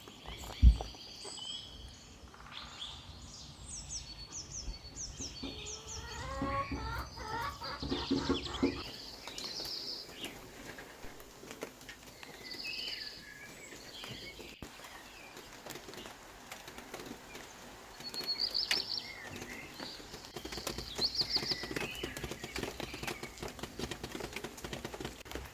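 Small birds singing and chirping, with short repeated high calls and trills throughout. A single sharp thump comes about a second in, and a low rumble runs under the birds for the first nine seconds or so.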